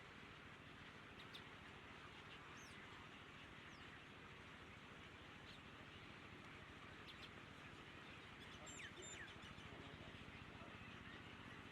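Faint bird chirps: a few single short calls scattered through, and a quick cluster of chirps about nine seconds in, over a steady background hiss and low hum.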